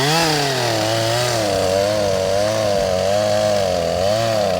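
Two-stroke chainsaw at high throttle cutting through a thick tree trunk, its engine pitch wavering up and down as the chain loads in the wood. The barely working saw runs best at full throttle.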